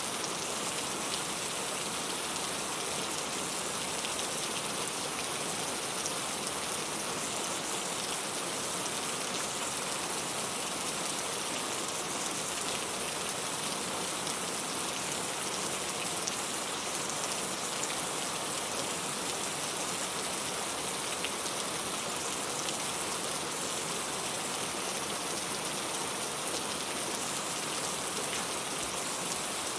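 Steady rain falling, an even hiss of many drops with fine patter on surfaces.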